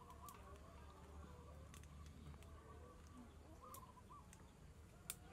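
Quiet outdoor ambience: a bird calling faintly, a short chirping phrase heard twice, and a few light clicks, the sharpest near the end.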